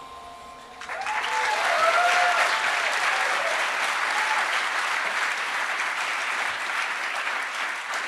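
Audience applause breaking out about a second in as the last held note of the song dies away, with a few whoops and cheers over the clapping.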